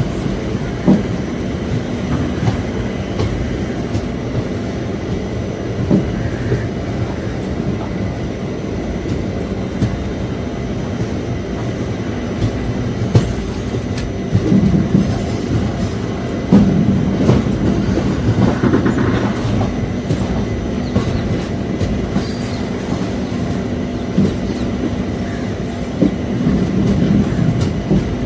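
Express passenger train running on the rails: a steady rumble with scattered clacks and knocks as the wheels pass rail joints, growing louder for a few seconds past the middle.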